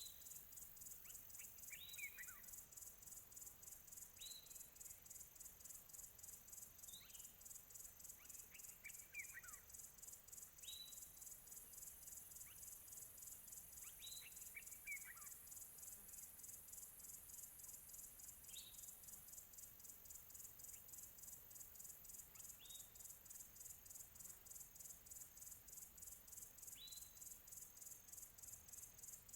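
Faint crickets chirping in a steady, rapid pulse, with a distant bird giving short, falling calls every few seconds.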